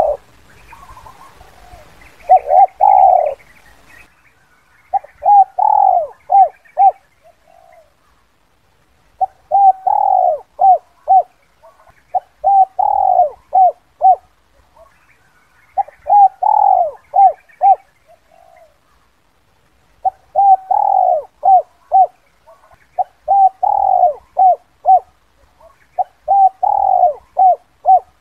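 Spotted dove cooing its 'kuk 2' call: loud, repeated phrases, each a fuller coo followed by a few short clipped notes, one phrase every few seconds.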